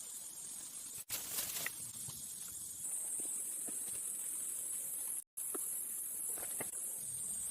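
Steady high-pitched insect drone, with a few faint clicks and rustles. The sound drops out completely twice, briefly.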